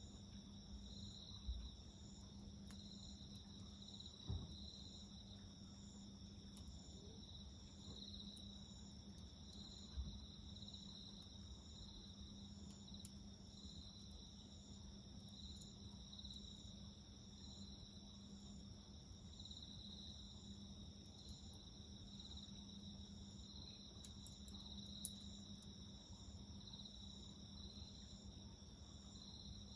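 Crickets chirping faintly in a steady, rhythmic, pulsing trill, with a few sharp pops from a wood fire crackling, about four in all.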